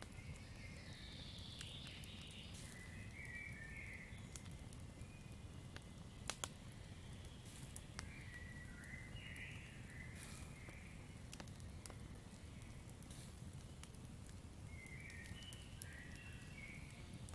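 Campfire crackling: scattered sharp snaps and pops over a low steady rumble of burning wood, with two louder pops about six seconds in. Short animal calls of the night forest come three times, near the start, in the middle and near the end.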